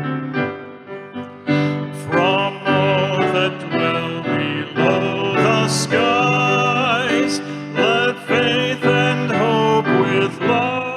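Piano playing, with a singing voice coming in about two seconds in and carrying a melody over it.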